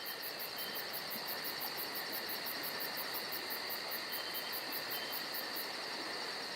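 Insects chirping: a steady high trill with a very high, fast pulsing chirp about five times a second over it, the pulsing stopping shortly before the end.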